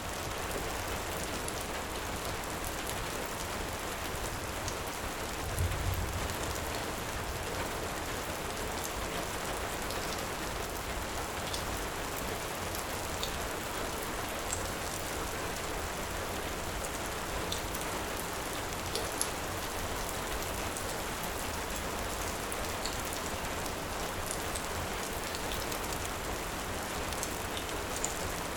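Steady heavy rain with scattered faint sharp crackles of a wood fire, and a brief low thump about six seconds in.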